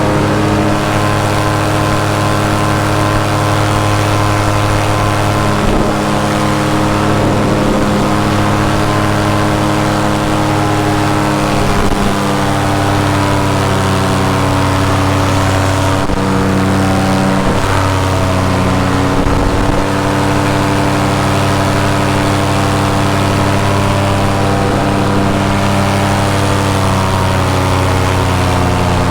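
Paramotor engine and propeller running steadily under power in flight, with small shifts in engine pitch about halfway through, over steady wind noise.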